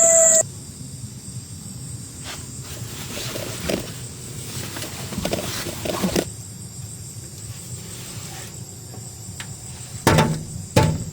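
Outdoor ambience with a faint steady insect chirring, a few soft knocks, and three louder thumps near the end.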